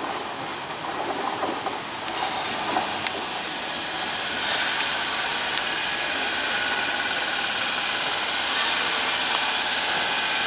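Class 317 electric multiple unit slowing into a station platform, wheels running on the rails, with a loud air hiss from its brakes that jumps up in steps about two, four and eight and a half seconds in.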